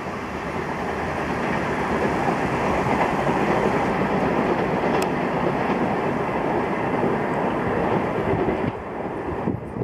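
Indian Railways express train running at speed, its coach wheels rumbling and clattering on the rails. The noise builds over the first few seconds, holds steady and drops near the end, with one sharp click about halfway.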